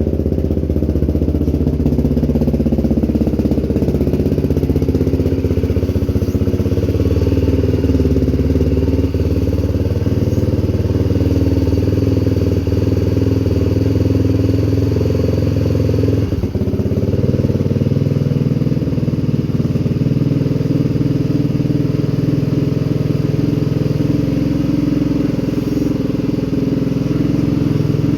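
A vehicle engine running loud and steady at a fairly constant speed, its note shifting slightly after a brief dip about two thirds of the way through.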